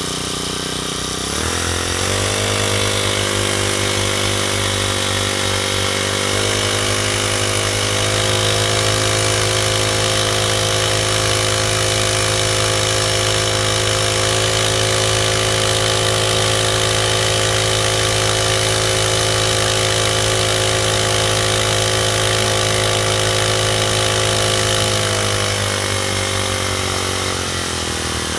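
Honda GX35 single-cylinder four-stroke engine on an outboard leg running. About a second in it rises from idle to high revs, steps up a little twice more, then holds steady. Near the end it drops back toward idle.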